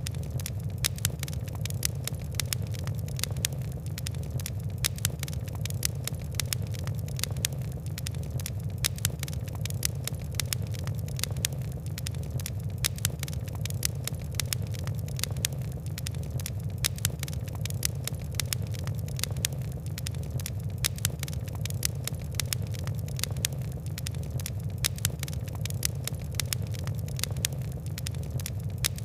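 Fire crackling, many quick sharp pops and ticks over a steady low rumble of burning.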